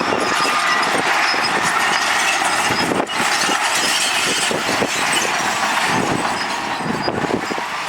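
Heavy earthmoving machinery working: a steady, loud mechanical noise with a dense clatter of small knocks.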